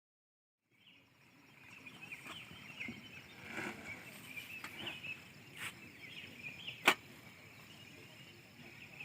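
Faint outdoor ambience with small animals chirping, short repeated calls, and two sharp clicks in the second half.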